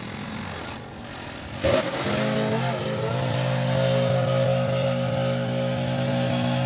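Small gasoline engine on lawn equipment starting up just under two seconds in, then settling into a steady run.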